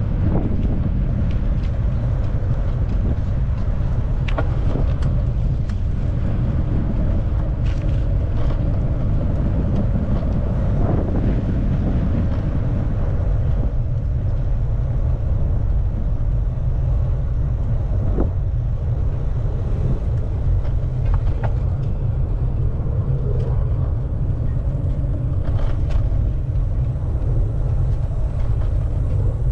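Steady low wind rumble on the microphone of a moving bicycle, mixed with street traffic noise and a few faint clicks.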